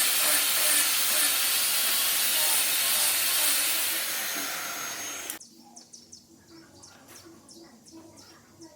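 Loud steady hissing rush from a workshop tool that cuts off suddenly about five seconds in, followed by faint taps and clicks.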